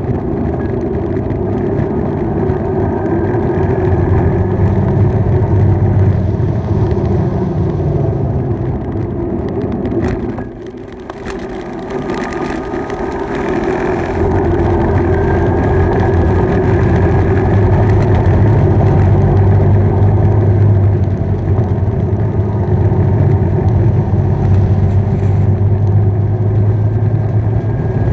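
Motorbike engine running under way, with road and wind noise. The engine note eases off and drops in level about ten seconds in, then pulls up again with a stronger low drone.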